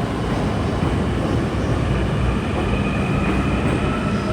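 Commuter train running on rails: a steady rumble of wheels on track. A faint whine rises slightly in pitch near the end.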